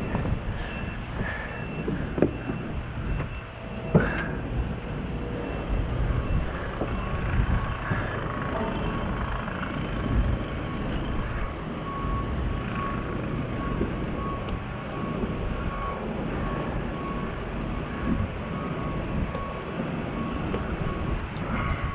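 Steady low rumble of a running motor, with a few knocks in the first few seconds and a faint high whine from about a quarter of the way in.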